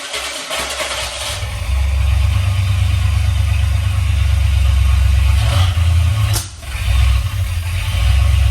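Ford Bronco engine with throttle-body fuel injection starting: rough uneven turning at first, then it catches about a second and a half in and runs loud with a heavy low rumble. Its level dips briefly about six and a half seconds in, then it picks back up. This is a test start after the EFI's leaking base gasket was found.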